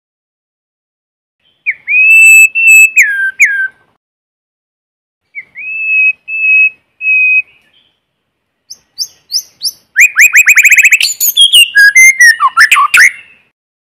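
White-rumped shama singing in three phrases: clear whistles that glide down, then three short steady whistles, then a fast run of rising notes that breaks into a varied warble.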